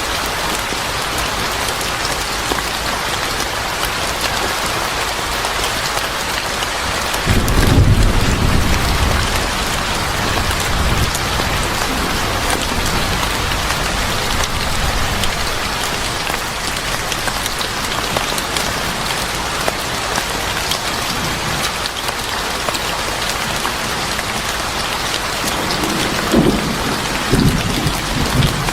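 Steady rain falling, with a low roll of thunder starting about seven seconds in and fading over a few seconds, and another broken rumble of thunder near the end.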